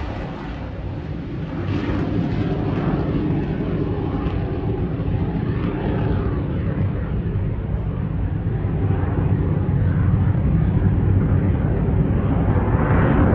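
Eurofighter Typhoon's twin jet engines at takeoff: a loud, rough, low rumble that grows steadily louder toward the end.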